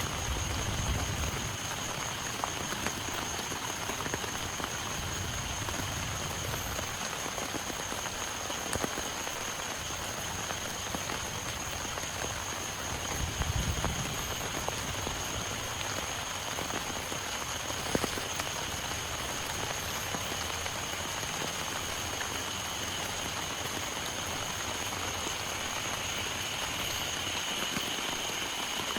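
Heavy rain falling steadily, with many small drops pattering on a surface. A thin, steady high-pitched drone runs underneath, and a soft low rumble swells briefly about halfway through.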